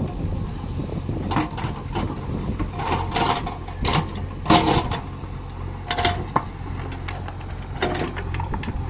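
A JCB backhoe loader's diesel engine running steadily, with irregular knocks and clatter as stone is loaded into a tipper trailer.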